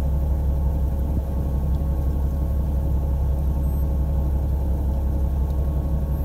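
Fishing boat's engine running steadily: a constant low drone with a faint, even hum above it.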